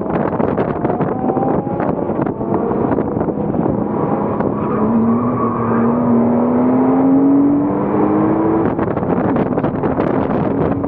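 Porsche Cayman S flat-six engine under hard acceleration, its note climbing steadily for about four seconds from the middle, then dropping away abruptly near the end as the throttle comes off or a gear changes. Heavy wind and road noise run underneath.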